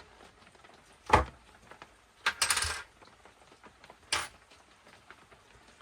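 Small metal parts and tools knocking and clinking on a workbench: a sharp knock about a second in, a short rattling clatter a moment later, then a single lighter click.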